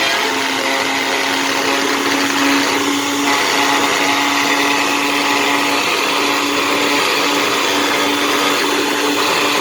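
Electric blender motor running at a steady speed, blending puffed-up microwaved Ivory soap with water. The motor holds one even tone throughout.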